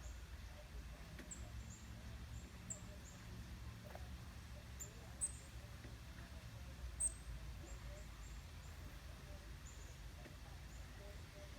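A small bird giving a series of faint, high, short chip notes, one every half second or so, with two louder, sharper notes about midway. A steady low rumble runs underneath.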